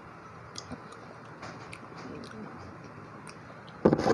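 Quiet chewing with a few small mouth clicks, then a brief loud sound near the end.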